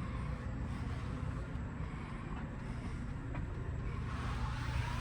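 Steady low hum and rumble inside a standing passenger rail sleeping car, growing a little louder near the end.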